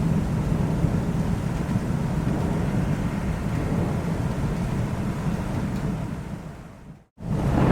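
Thunderstorm recording: rain with a low, steady rumble of thunder. It fades out about six to seven seconds in, drops to a moment of dead silence, then rain and thunder come back louder.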